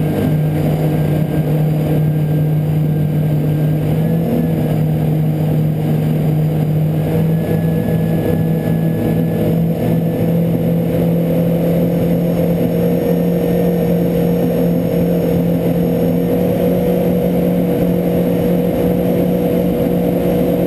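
Yamaha VX 110 four-stroke jet ski engine running steadily at trolling speed, around 4,500 to 5,000 RPM. Its pitch rises slightly about four seconds in, then holds.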